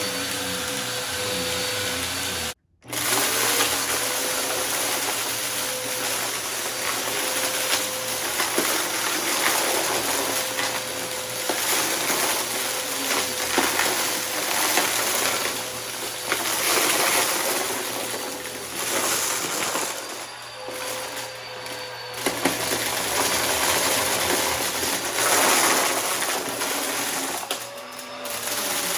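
Bissell upright vacuum cleaner running over a rug, its motor holding a steady whine while it sucks up scattered mess-test debris with frequent small crunches and clicks. The sound cuts out briefly about three seconds in, then the motor starts up again.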